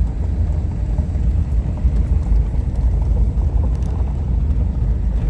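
Car driving along a gravel road: a steady low rumble of tyres and engine.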